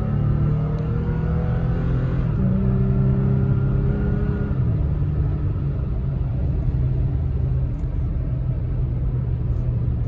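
Pickup truck engine accelerating in sport mode. Its pitch climbs, drops at an upshift about two seconds in, and climbs again. It then settles into a steady cruise with tyre and road noise.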